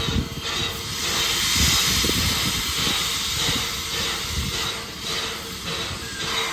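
Steam locomotive venting steam: a broad hiss that swells about a second in and eases toward the end, over a low rumble.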